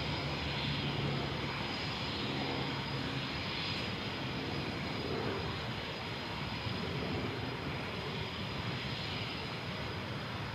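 Embraer KC-390's IAE V2500 turbofan engines running steadily: a broad rush with a thin steady high whine over it.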